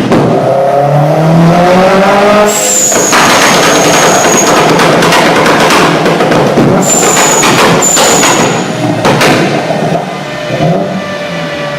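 Car engine revving up, rising in pitch, then running hard under a long stretch of loud tyre squeal, as in a drift. A high whistle sounds over it twice.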